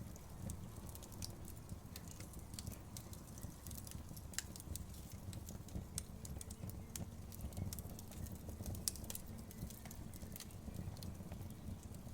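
Campfire crackling: many small, irregular pops and snaps over a low, steady rumble, with a couple of sharper snaps about four and nine seconds in.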